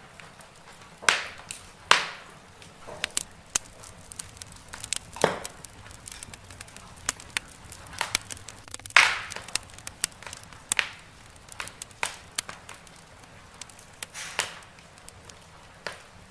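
Wood fire crackling in a fireplace: irregular snaps and pops, a few of them much louder, over a faint steady hiss.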